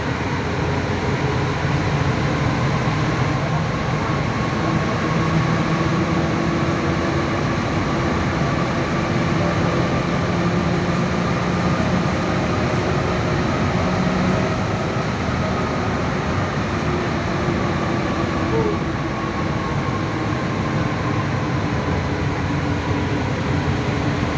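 Paris Métro Line 1 rubber-tyred train running between stations: a steady rumble and rush with a faint whine that slowly shifts in pitch.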